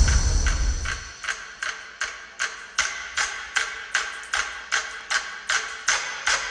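Loud festival drumming fades out over the first second. It gives way to a steady beat of sharp wooden clicks, about two and a half a second, from drumsticks keeping time.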